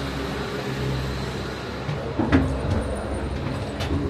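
Cable-car gondola cabin running with a steady low rumble, with one sharp clunk about two seconds in and a lighter click near the end.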